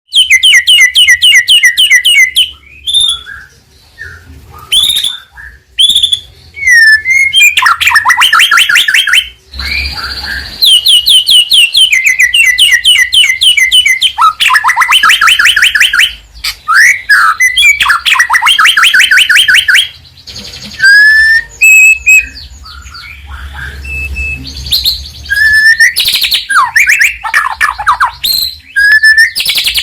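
White-rumped shama (murai batu) singing loudly and continuously: fast trills of rapidly repeated notes alternating with clear whistled phrases and brief pauses, the full, varied song of a bird in top singing form.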